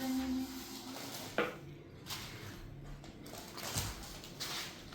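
A few scattered knocks and clatters, about four, spread out over several seconds, with a short steady tone in the first second.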